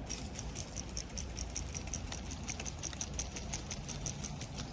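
Fishing reel clicking in a steady, even run of sharp ticks, about six a second, as it is worked through a mishap with the line.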